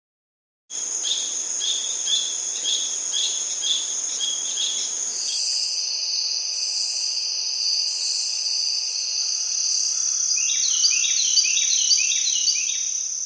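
Rural outdoor ambience of insects and birds. A steady high insect drone runs under repeated chirping, about two chirps a second at first. From about ten seconds in, a bird gives a quick run of falling notes.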